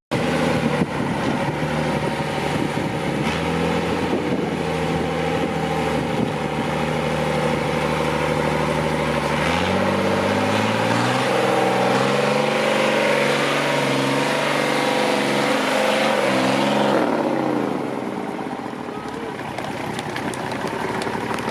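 Off-road truck's diesel engine pulling under load, revs climbing about halfway through and shifting in steps, then dropping back near the end.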